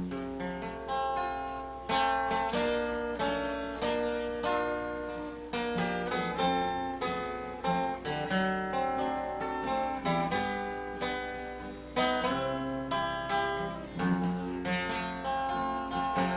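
Acoustic guitar picking a country melody as the instrumental opening of a song: single notes and small chords, each struck sharply and left to ring and fade. A low steady hum runs underneath.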